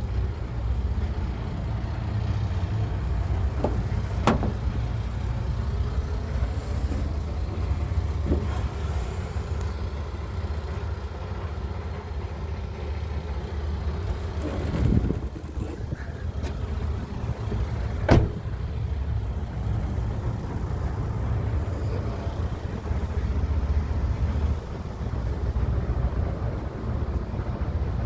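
Volvo FH 460 truck's 13-litre six-cylinder diesel engine idling steadily, with a few short knocks over it; the loudest comes about two-thirds of the way through.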